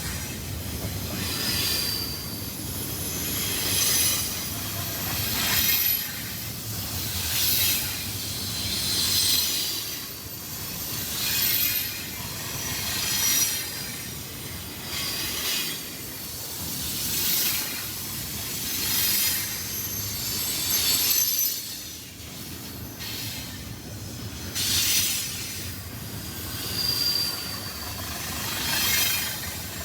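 Freight train cars rolling past, their steel wheels squealing on the rail. The sound swells and fades about every two seconds, with short high-pitched squeals at each swell.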